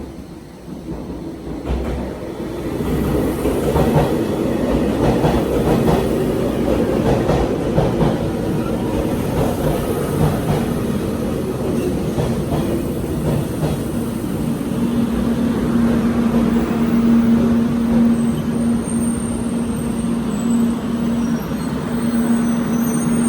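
Limited express train pulling into the station, its wheels clattering over the rail joints and getting louder about two seconds in, with a steady hum setting in about halfway through.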